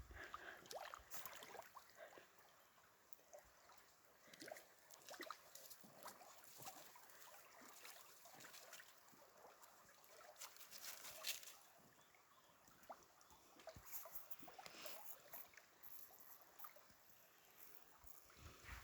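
Faint water sloshing and trickling, with irregular small splashes and clicks throughout, a little louder about eleven seconds in.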